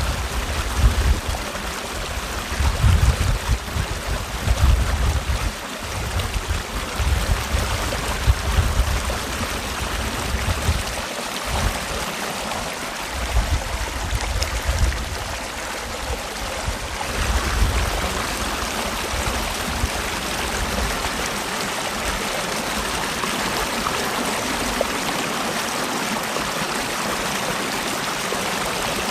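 Mountain valley stream flowing and splashing in a steady rush. Uneven low rumbling comes and goes in the first half, then the sound settles and evens out after about seventeen seconds.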